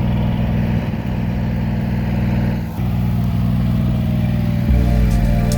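Engine running steadily, with a brief dip about three seconds in and a low thump near the end.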